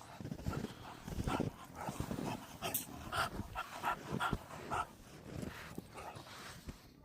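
English bulldog puppy making dog noises: short low grunting pulses throughout, with a run of about five short, high-pitched whimpers in the middle.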